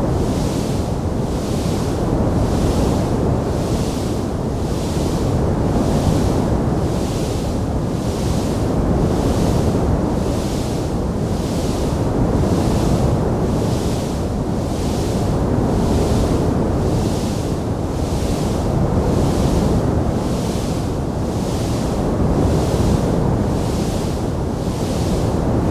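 Wood fire burning in a fireplace: a steady, dense rush of noise, heaviest low down, with a hiss on top that swells and fades about once a second.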